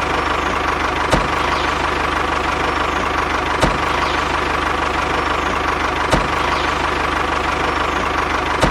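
Tractor engine sound running steadily at idle, with a short thump about every two and a half seconds.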